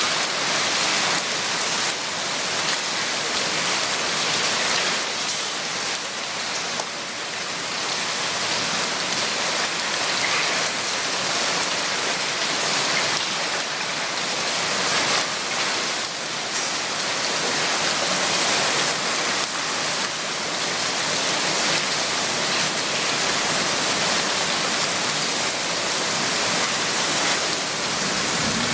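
Heavy cloudburst downpour: rain pouring hard and steadily onto surfaces, a dense even hiss.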